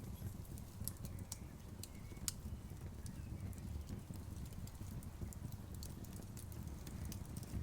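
Wood fire burning: a low steady rumble of the flames with irregular sharp crackles and pops.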